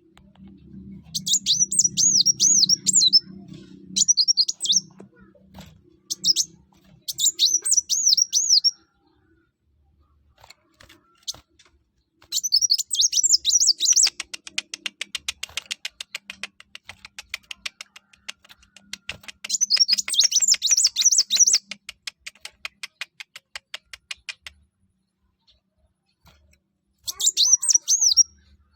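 Kolibri wulung (mucang), a sunbird, singing in short bursts of high, fast twittering phrases, a few seconds apart. In the middle comes a long, rapid, even ticking rattle lasting about ten seconds.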